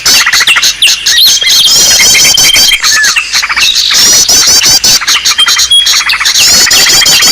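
Small-bird lure recording: many small songbirds chirping and trilling at once in a dense, loud chorus of rapid high twitters, with a thin steady whistle held for a second or two at intervals. The calls recur in a repeating pattern, as a looped lure track does.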